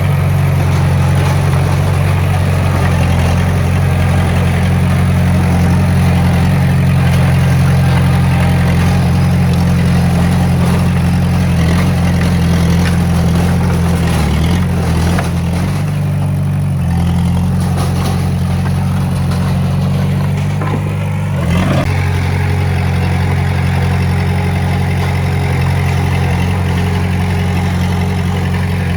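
Diesel engine of heavy earthmoving machinery running steadily, with a short sharp knock about three-quarters of the way through.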